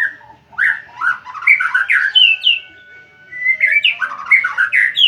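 White-rumped shama (murai batu) singing loudly: two runs of quick, sweeping notes with a short pause between them.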